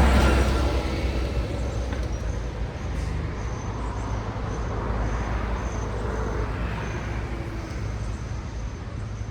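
Road traffic: a vehicle passes close right at the start, then a steady rumble of traffic goes on, with another, fainter vehicle passing in the middle.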